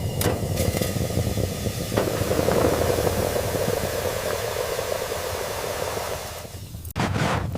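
A steady hiss of noise that drops off suddenly near the end, followed by a few sharp scraping sounds.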